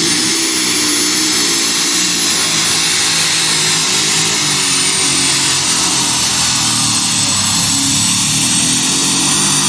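Pulling tractor's engine running hard under full load as it drags the weight sled down the track, loud and steady, with a thin high whine over it.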